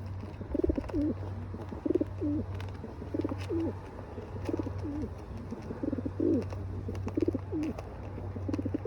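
Pigeon cooing over and over, a short two-part coo about every second and a bit, each ending in a falling note.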